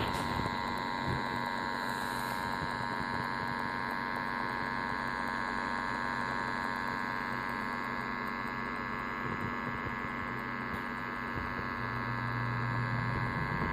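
Steady electrical hum with several high, even whining tones from a powered O-gauge model train set (Lionel R-30 subway cars on live track). It gets slightly louder and deeper near the end.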